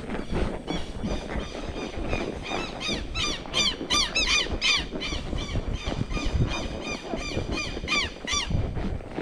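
A bird calling over and over in a rapid series of short, harsh, rising-and-falling notes, about three a second, building to its loudest in the middle and trailing off near the end, over a constant low rumble and knocking.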